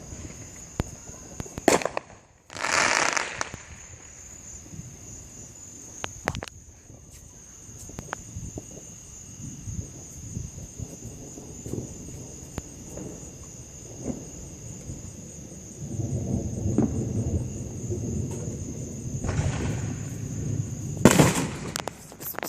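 Fireworks going off: a sharp bang about two seconds in, followed by a loud crackling burst. Smaller cracks come later, then a low rumble lasting several seconds ends in another sharp bang near the end.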